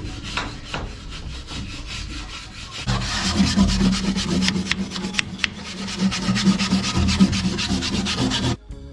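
Abrasive scrubbing and scraping on metal, as in wire-brushing and cleaning up corroded parts. It grows louder and busier about three seconds in, over a steady low hum, and cuts off suddenly near the end.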